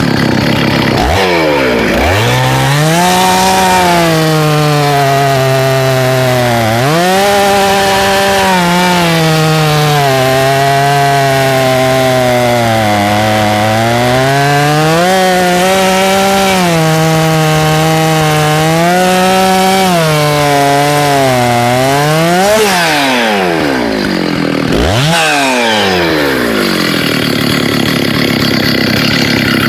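A big 90cc-class professional chainsaw is revved and run through a log for about twenty seconds, its engine note sagging and recovering under the load of the cut. Near the end it revs free, drops back, blips once and settles to a lower steady run.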